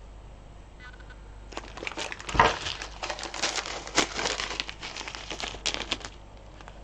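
Beads being handled while sorting: a dense run of crinkling and small clicks that starts about a second and a half in and stops about six seconds in.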